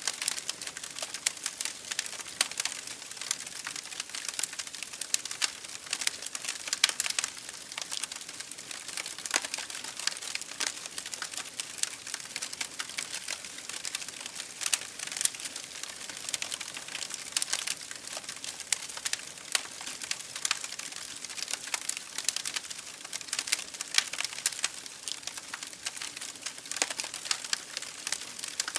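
Wood fire burning in an open fireplace, crackling and popping continuously over a soft hiss, with the loudest pops scattered irregularly.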